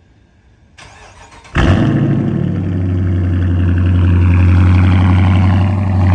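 Car engine cold-started: a short crank, then it catches about a second and a half in and settles into a steady idle with a strong low hum.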